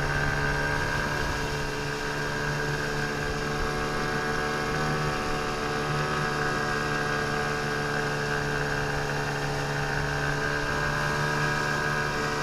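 A 15 hp outboard motor running at a steady speed under way: a constant, even drone that holds its pitch.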